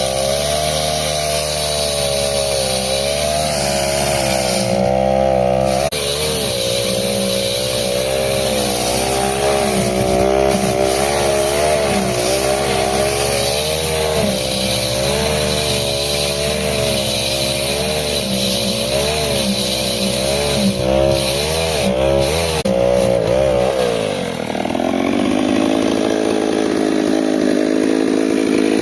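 Stihl 08 two-stroke chainsaw running hard as it cuts through a thick rubber tractor tyre, its engine pitch wavering up and down with the load. Near the end the engine drops to a lower, steadier speed.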